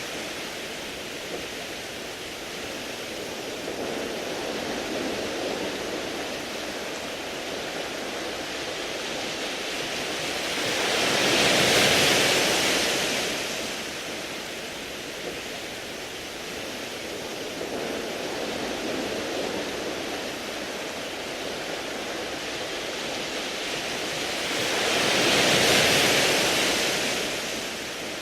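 Sea waves washing onto a beach of smooth round pebbles. Two waves swell up and fade away about 14 seconds apart, with a steady hiss of water between them.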